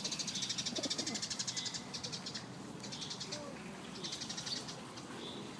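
Wild songbirds singing: a fast, high trill for the first two seconds, then shorter trilled phrases about three and four and a half seconds in.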